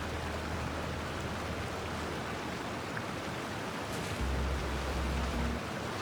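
Steady, even rushing noise like a water or surf ambience track. Deep, sustained low notes of soft background music come in about four seconds in.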